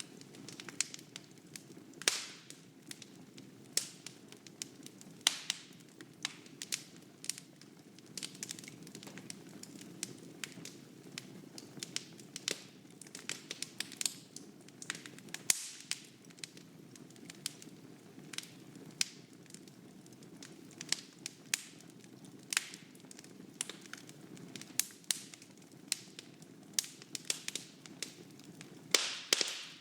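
Wood fire burning in a fireplace, crackling with frequent irregular sharp pops over a steady low rush of flame, with a cluster of louder pops near the end.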